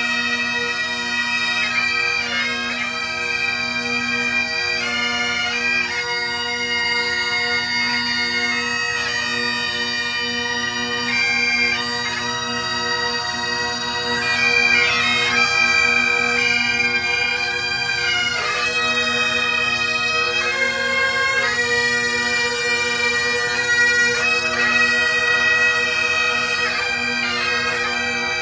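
Bagpipes playing a tune, the chanter's melody moving from note to note over a steady, unbroken drone.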